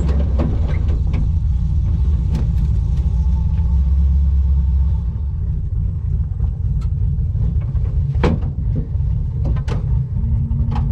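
Street/drag car engine rumbling steadily at low speed, with no revving, and a few short clicks and knocks; the rumble eases a little about halfway through.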